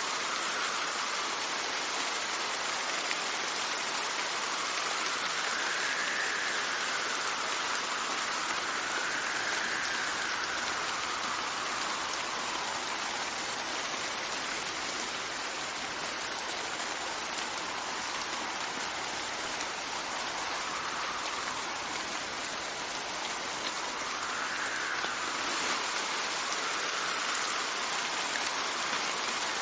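Steady rain falling, with wind blowing over it: a soft whistle that rises and falls in pitch every few seconds.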